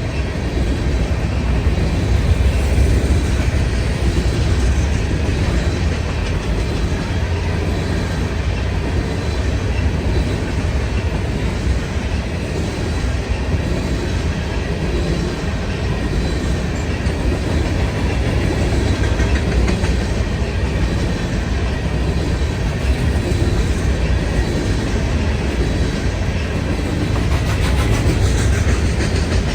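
Freight cars of a grain train rolling past, steel wheels running steadily on the rails.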